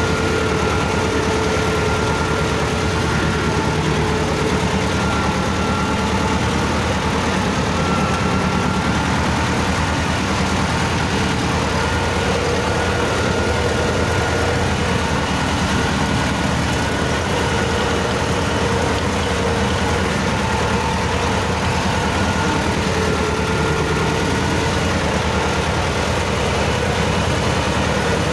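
T-16 self-propelled chassis tractor's two-cylinder air-cooled D-21 diesel engine running steadily at an even speed.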